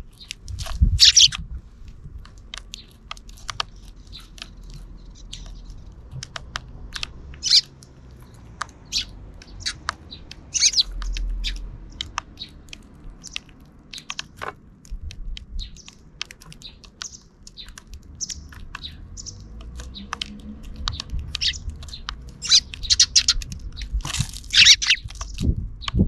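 Sparrows chirping in short, scattered calls, with louder flurries of chirps about a second in and again near the end.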